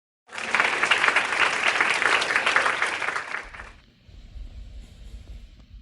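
A burst of applause, dense clapping lasting about three seconds that ends fairly abruptly, followed by a faint low rumble.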